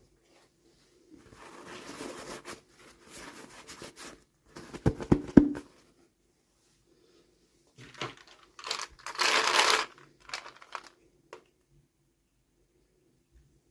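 Toy packaging being handled and opened: crinkling and tearing of wrapping in uneven bursts, with a quick run of sharp clicks around five seconds in and a louder crinkling burst about nine seconds in.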